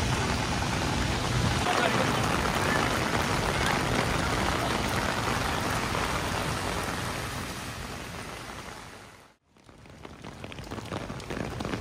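Steady heavy rain pattering on an umbrella. The sound fades out to near silence about nine seconds in, then fades back up.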